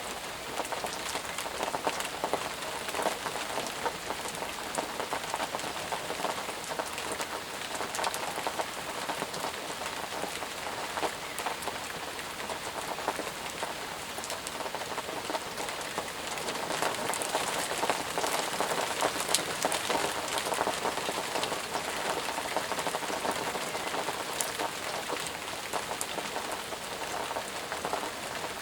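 Intense rain falling steadily, with many separate drops ticking close by through the steady hiss. It grows a little heavier about halfway through.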